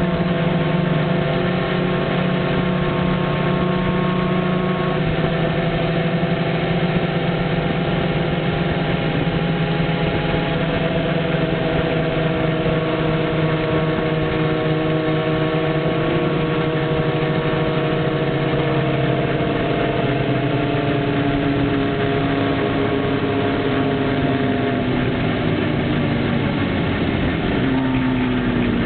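Motorcycle engine running while the bike is ridden, its note sinking slowly as it eases off and then dropping more sharply near the end, with wind rush on the microphone.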